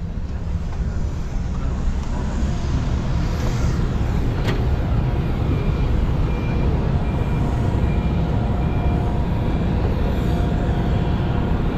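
Steady low machinery rumble with a few faint steady tones. Over the second half, a short high beep repeats about every half second.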